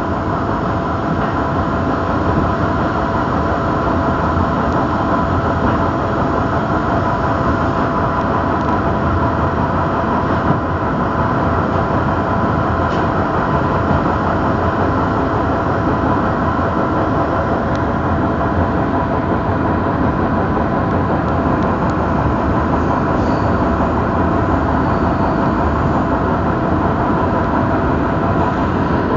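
Train running along the track, heard from inside a passenger car: a steady rumble of wheels and running gear with a constant whine.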